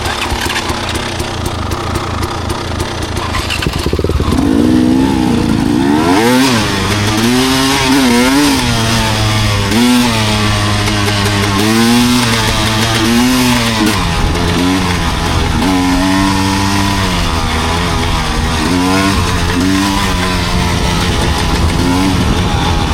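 Enduro dirt bike engine running. From about four seconds in it revs up and down over and over.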